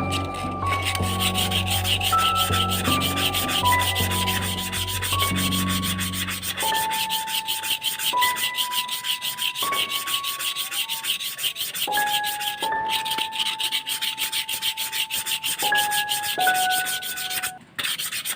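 Rusty steel bicycle handlebar being sanded, a steady rapid abrasive rubbing with a brief break near the end. Background music with a stepping melody plays over it.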